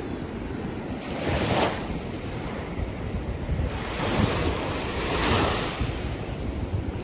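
Sea waves washing and breaking on a rocky shore, swelling twice, with wind buffeting the microphone as a steady low rumble.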